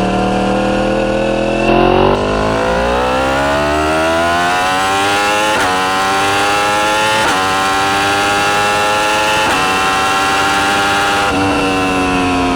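Yamaha YZF-R1's crossplane inline-four through an Akrapovic full titanium exhaust, accelerating hard. The pitch climbs steadily, broken by three quick upshifts, then the throttle eases off near the end and the pitch falls. There is a brief louder burst about two seconds in.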